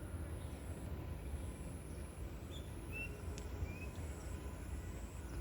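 Outdoor rural ambience: a low rumble under a steady high insect drone, with a few short faint bird chirps about three seconds in.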